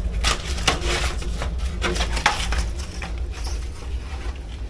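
Clicking, clattering and scraping of parts being handled at an HVAC air handler, over a steady low hum. The clicks are densest in the first three seconds and thin out after that.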